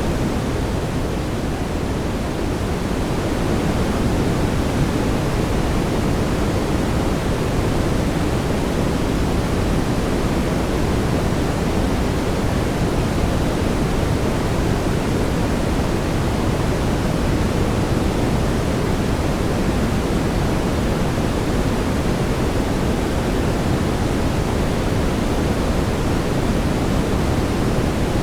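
Brown noise: a steady, even rushing hiss weighted toward the low end, with no tones or events in it.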